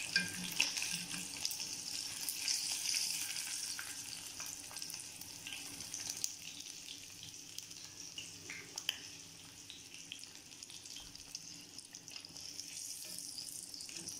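Fish pieces deep-frying in hot oil in a kadai: a steady crackling sizzle that grows fainter through the middle, with a few faint clicks.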